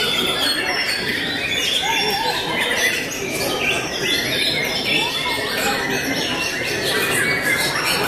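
Several caged white-rumped shamas (murai batu) singing at once, a dense, unbroken tangle of overlapping whistles, chirps and rising and falling phrases.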